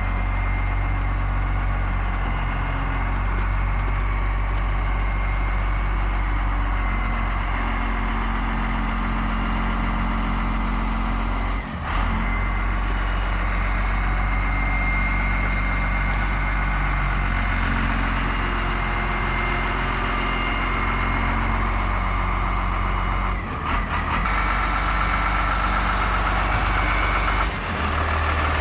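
Diesel engine of a Ford bucket truck idling steadily, with three brief dropouts in the sound.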